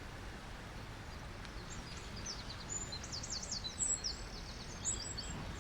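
Small birds chirping in quick runs of high notes, starting about a second and a half in, over a steady background hiss of outdoor ambience.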